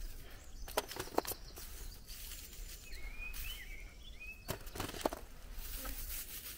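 Quiet outdoor ambience with a bird chirping a few short calls near the middle, and scattered sharp clicks and taps, the loudest about a second in and again near two-thirds through.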